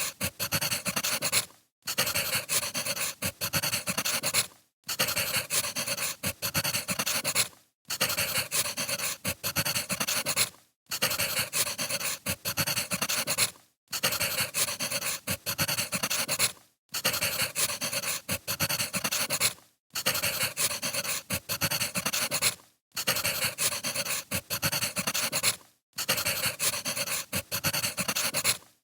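Crackling wood fire: a hiss dotted with sharp pops and snaps, played as a short loop that breaks off briefly about every three seconds.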